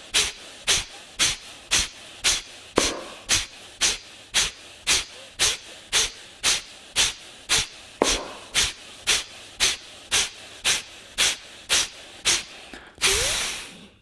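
Kapalabhati breathing: a person's sharp, forceful exhalations through the nose in a steady rhythm of about two a second, each a short hiss. One longer breath comes near the end.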